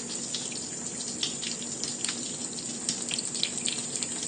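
Tap water running steadily as a bird is showered under it, with scattered small splashes and drips.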